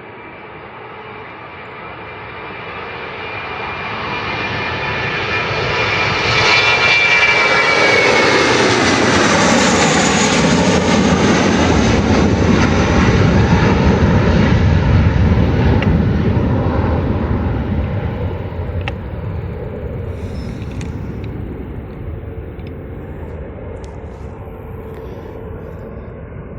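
Airbus A321's IAE V2500 turbofans at takeoff power, passing by on the runway. The jet noise builds, a whine glides downward as the plane passes about eight seconds in, then a deep rumble peaks and slowly fades.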